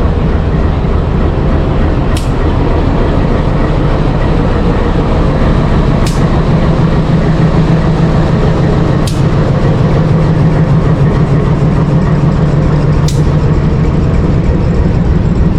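Loud, steady low rumble of a vehicle running, with a low engine drone that grows stronger a few seconds in and a few sharp clicks.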